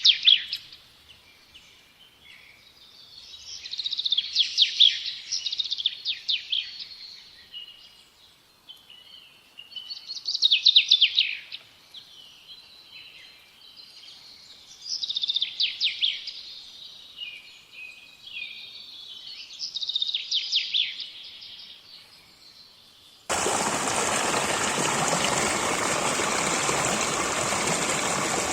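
A songbird singing repeated phrases of rapid high notes, one phrase about every five seconds. About 23 seconds in the sound cuts abruptly to the steady rush of a stream, which is louder.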